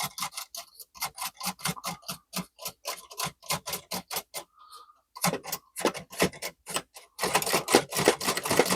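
Chicago typewriter keys being struck in a quick, uneven run of clicks, about five a second, with a short pause around the middle and faster typing near the end. This is test typing with the type sleeve freshly oiled with sewing machine oil.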